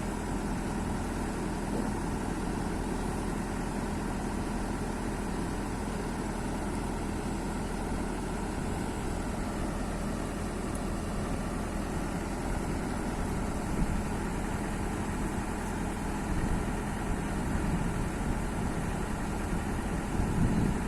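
Kobelco excavator's diesel engine idling steadily.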